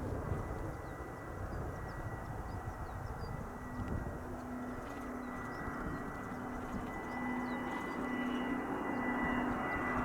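Gulfstream G500 business jet on final approach, its turbofans giving a steady high whine over a broad rush that grows steadily louder as it nears.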